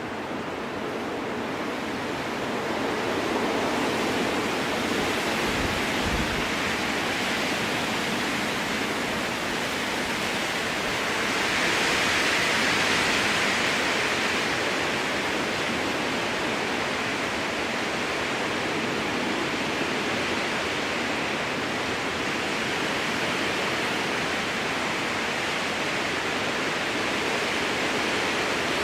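Strong wind blowing through spruce trees: a steady rushing hiss that swells in gusts, the strongest gust about twelve seconds in, when the hiss rises higher.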